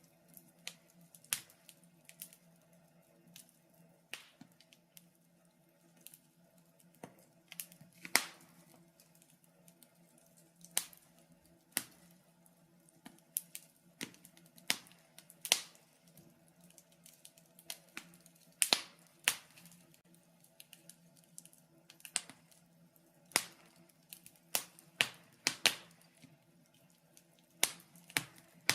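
Wood fire crackling: irregular sharp pops and snaps at uneven intervals, some much louder than others, over a faint steady hum.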